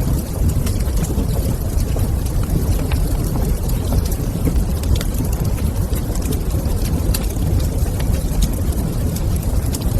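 Wood fire crackling in a fireplace, with frequent small sharp pops and snaps over a steady low rumble.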